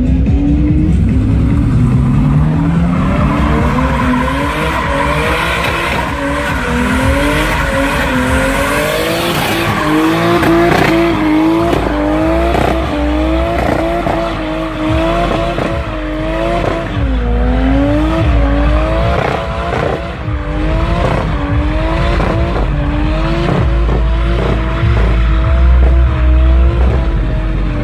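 Toyota Supra MK4's 2JZ-GTE inline-six engine revving hard. Its pitch climbs steadily over the first few seconds, then swings up and down about once a second as the throttle is worked repeatedly.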